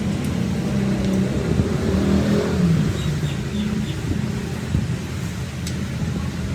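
An engine running with a steady low hum, its pitch shifting slightly about two to three seconds in.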